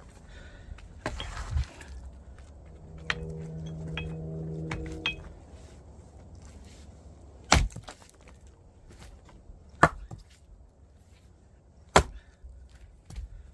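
Axe blows splitting firewood: a series of sharp chopping strikes with wood cracking, the loudest four spread about two seconds apart through the second half.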